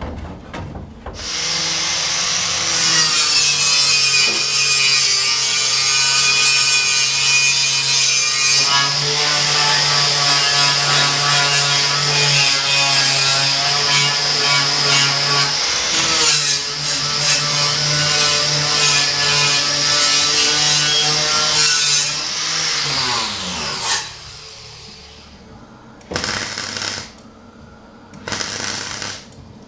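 Angle grinder running against steel sheet metal, a steady motor whine with a hard grinding hiss, then winding down with falling pitch when released. Two short bursts of grinding follow near the end.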